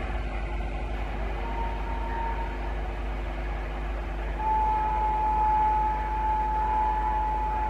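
LHB-coach express train running on the track with a steady rumble, and a single high steady tone that sounds briefly and then comes back louder and holds from a little past the middle.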